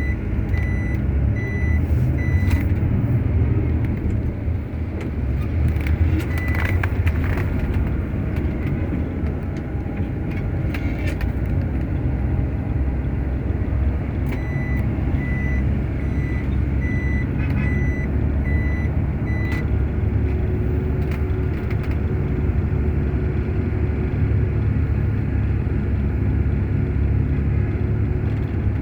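Truck engine running steadily, with its reversing alarm beeping in short, evenly spaced beeps near the start and again for about five seconds midway, as the truck backs up. A few knocks sound in between.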